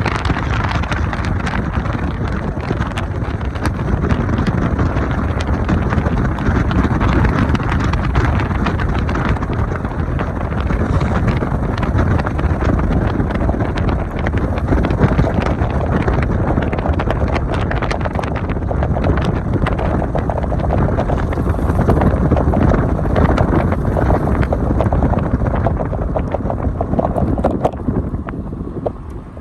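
Heavy rain falling, with dense patter and many sharp drop impacts over a low rumble of wind on the microphone; the sound falls away near the end.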